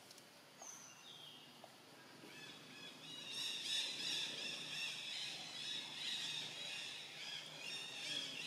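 Birds chirping: a couple of brief high chirps, then a denser run of repeated high chirping that grows louder about two seconds in.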